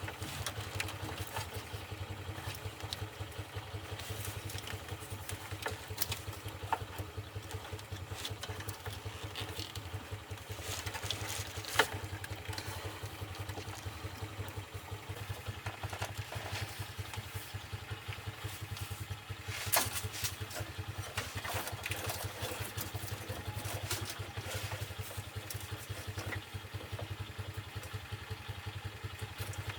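An engine idling steadily with a fast, even pulse, with a few sharp metallic clicks over it, the loudest about twelve and twenty seconds in.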